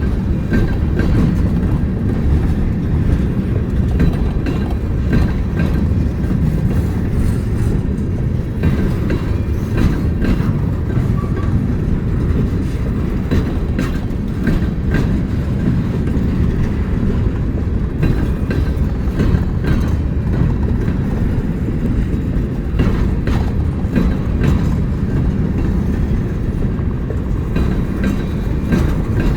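Train rolling steadily past, a continuous low rumble with irregular wheel clicks over the rail joints.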